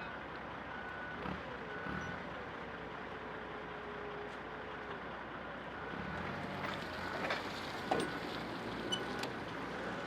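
A vehicle's reversing alarm beeps about once a second, stops for a few seconds and starts again, over an engine whose pitch rises and falls as it works. About eight seconds in there is a sharp knock.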